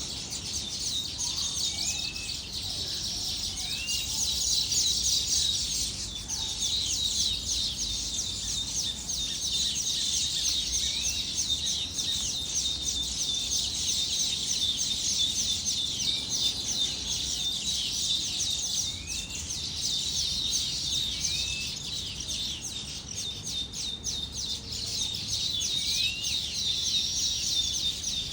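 A flock of small birds chirping in a dense, continuous chorus of high, short notes. A separate short rising whistle recurs every few seconds.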